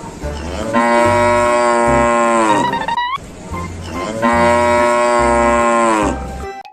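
A cow mooing twice, two long moos, over background music with a steady beat.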